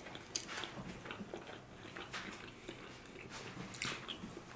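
Faint chewing and wet mouth sounds of a person eating sushi, with scattered soft clicks.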